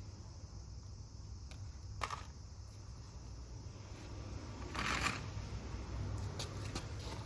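Quiet hand-handling noises over a low steady hum: a few light clicks and a short rustle about five seconds in.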